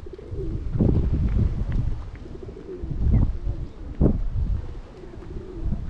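Wind buffeting the microphone in gusts, with a few dull thumps about one, three and four seconds in. A pigeon coos in between.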